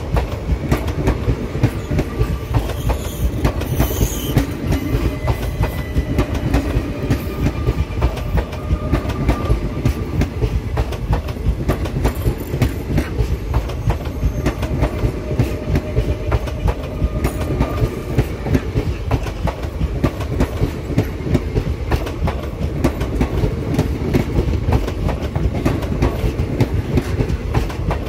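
Indian Railways express passenger coaches rolling past close by at speed, their wheels clattering steadily over the rail joints, with a faint thin squeal from the wheels now and then.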